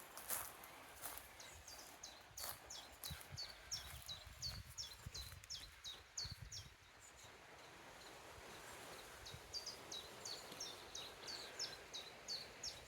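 A small songbird singing a run of short, high, down-slurred notes, about two or three a second, for several seconds. It pauses, then starts a second run. A few faint knocks sound near the start.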